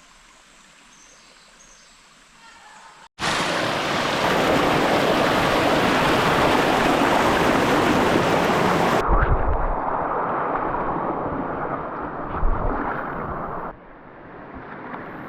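Loud rushing water, as of a waterfall or river rapids close by, cutting in suddenly about three seconds in after a quiet stretch. From about nine seconds it sounds duller and lower, with a few low thumps, and it drops back down near the end.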